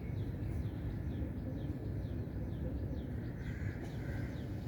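A small bird calling over and over in short falling chirps, about three a second, over a steady low rumble of outdoor background noise.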